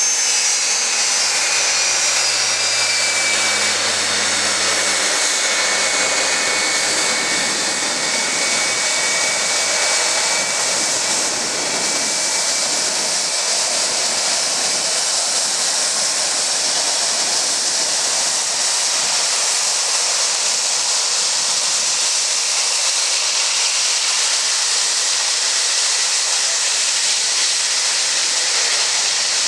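Jet airliner engines running loud and steady, a dense rushing noise, with a high whistling whine that fades over the first few seconds.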